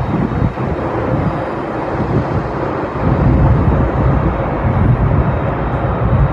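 Four-engine jet airliner's engines rumbling as it passes, a steady deep roar of noise that grows louder about three seconds in.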